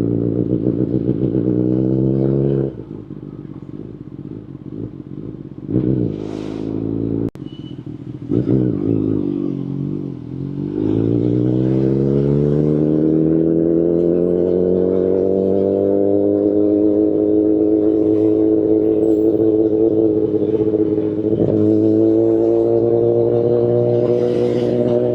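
2019 Kawasaki Ninja ZX-10RR's inline-four engine through an Akrapovic Evolution Line carbon full exhaust system, heard from the moving bike. It runs steadily, then the throttle closes about three seconds in and there are two short blips of revs. From about ten seconds in the revs climb smoothly and then level off into steady cruising.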